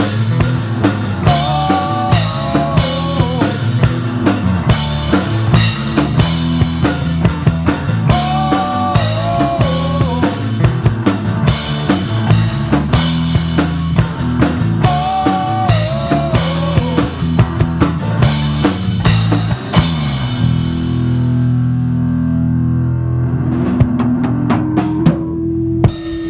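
Live rock-and-roll band playing an instrumental break with drum kit, bass and guitar, a melodic line in wavering, bent notes repeating three times. About twenty seconds in the drums stop and the chords ring on, and the song ends with a final hit near the end.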